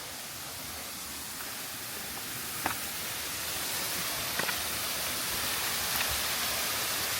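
Waterfall rushing as a steady hiss that grows slowly louder, with a few sharp knocks, like steps on rock, about a third of the way in, past the middle and near the end.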